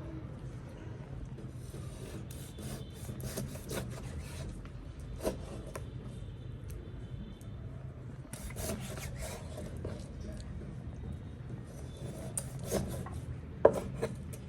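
Irregular scraping and rubbing strokes with a few light knocks, over a steady low hum; a sharper knock comes near the end.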